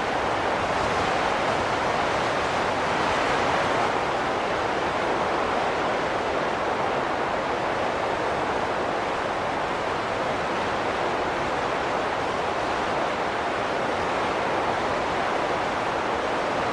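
Steady wind rushing, a dense even noise that swells and eases slightly over a few seconds.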